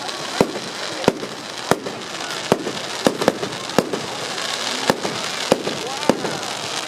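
Fireworks going off: a string of sharp, irregular bangs, about one to two a second, over a steady hiss, with voices faint between them.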